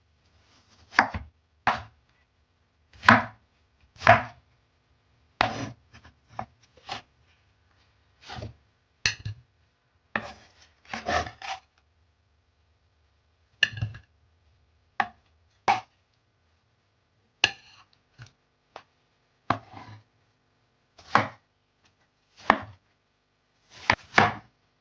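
A knife chopping food on a cutting board: about twenty separate, irregular strokes, some single and some in quick pairs.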